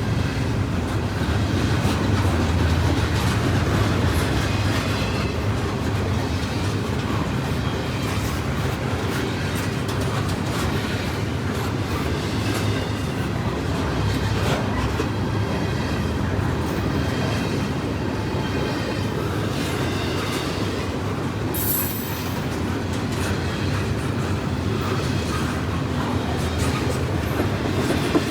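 CSX freight train cars rolling past, steel wheels clicking rhythmically over rail joints with a steady rumble, and a brief high wheel squeal about three quarters of the way through.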